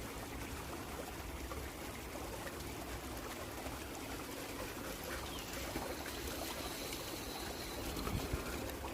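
Creek water trickling and running steadily, with low rumble beneath it and a brief knock about eight seconds in.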